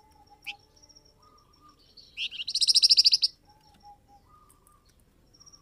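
Call recording of the flamboyan songbird: one short sharp note about half a second in, then a loud, rapid trill of high notes lasting about a second. Faint thin whistling notes sit underneath.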